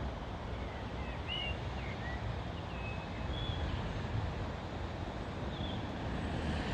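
A few faint, short bird chirps over a steady low outdoor rumble.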